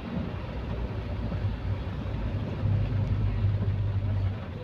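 A vehicle's engine and road noise while driving: a steady low rumble that swells louder for a couple of seconds in the second half.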